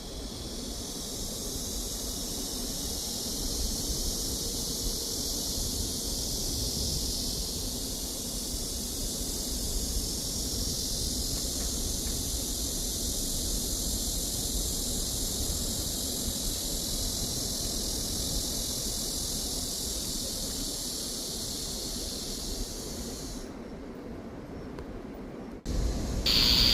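A chorus of cicadas buzzing in a steady high-pitched hiss, which stops about three seconds before the end, over a low steady rumble.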